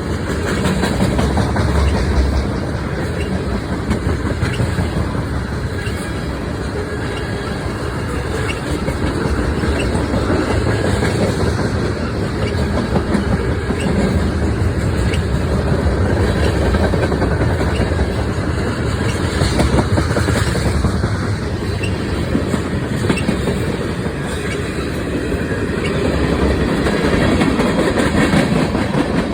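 Train cars rolling past, wheels clicking steadily over the rail joints with some wheel squeal.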